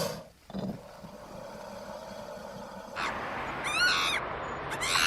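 An animal calling: short calls, each about half a second long with a wavering, arching pitch, repeat about once a second from about three seconds in, over a low steady background.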